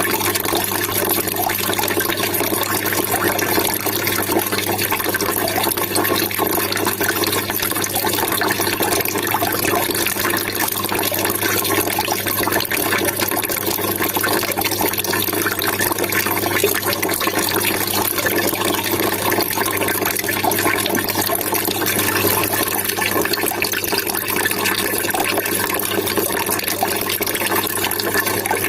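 Water trickling and gurgling in a steady, unbroken flow.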